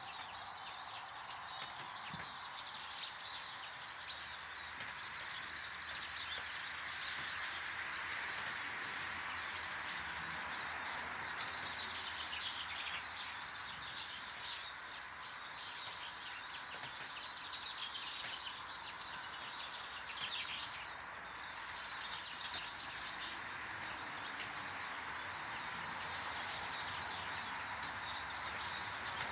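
Small garden birds chirping and calling, over a steady background hiss. About 22 seconds in, a loud, rapid, high-pitched rattle lasts under a second.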